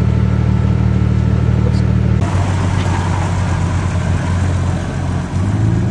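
Off-road vehicle engine running steadily. A little over two seconds in, the sound changes abruptly to a lower, uneven engine note with added hiss, and it settles back to a steady note near the end.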